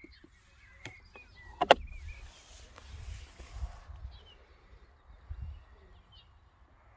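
A few sharp clicks, the loudest a little under two seconds in, over a low rumble, with faint bird chirps.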